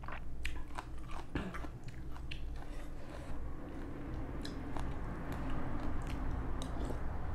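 Close-up sounds of someone eating noodle soup: chewing and wet mouth sounds, with scattered light clicks as a metal spoon scoops in a ceramic bowl.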